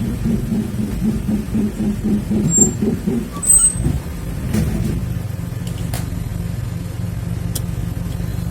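Car running on the road, a steady low drone with a few light clicks, heard from inside the moving car.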